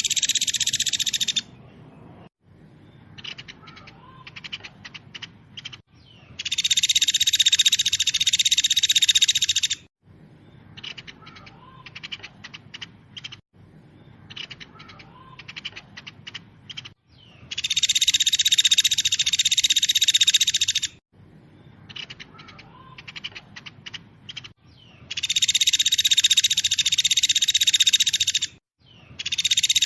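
Recorded songbird masteran song: bursts of very fast, dense, high-pitched song about three seconds long, four times, each followed by several seconds of sparser, quieter chirps and trills. The even repetition suggests a looped recording.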